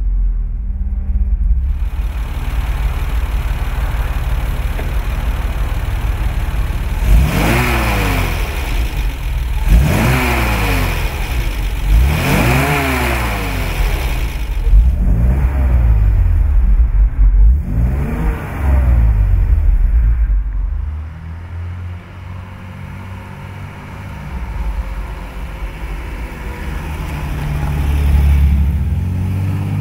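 Lancia Flaminia 2800 3C's 2.8-litre V6 on three carburettors idling, then revved about five times, each rev rising and falling back in pitch. It then settles to a quieter idle, and near the end it rises again as the car pulls away and drives past.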